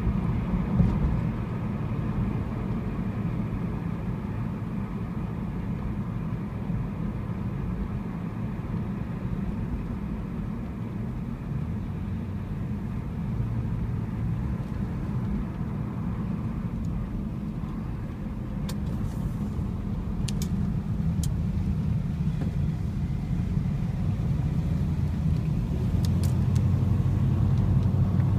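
Classic American car's engine and road noise heard from inside the cabin while cruising, a steady low drone that grows louder near the end as the engine pulls harder. A few faint clicks sound in the second half.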